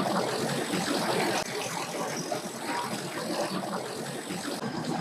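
A steady mix of engine noise from boats and tow vehicles, with no single machine standing out.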